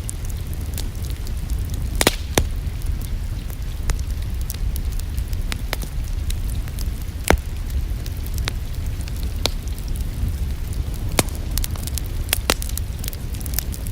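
A wood fire crackling in a fireplace: irregular sharp pops and snaps over a steady low rumble of the flames.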